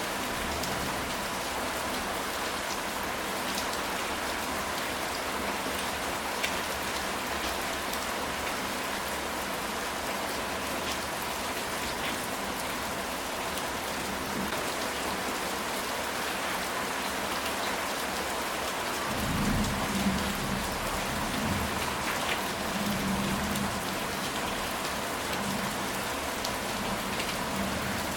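Steady heavy rain falling on a ceramic tile roof, a dense even hiss of drops. About two-thirds of the way through, a low rumble of thunder rises and rolls on intermittently under the rain.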